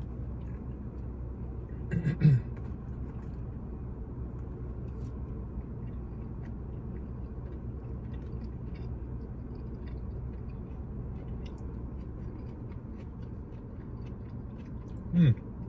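A person chewing a mouthful of cheese fries with faint small mouth clicks, with a short hummed "mm" about two seconds in and a falling "mmm" of approval near the end, over a steady low background hum.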